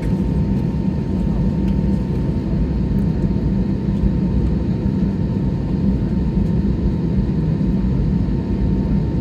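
Airliner's engines running steadily at low power, heard from inside the passenger cabin during taxi: a constant low rumble with a faint steady hum above it.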